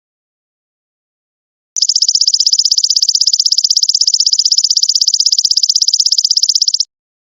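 Golden locust (belalang emas) call, an insect recording played as a song-bird tutor: a loud, high-pitched buzz made of rapid, even pulses. It starts about two seconds in after silence, lasts about five seconds and stops abruptly.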